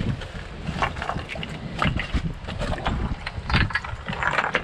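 Strong wind buffeting the microphone in a low rumble, with irregular knocks and splashes from water and stones being shifted.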